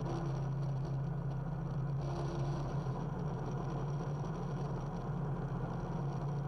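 Rotax engine and propeller of a SuperSTOL light aircraft running steadily, heard as an even, constant drone from inside the cockpit.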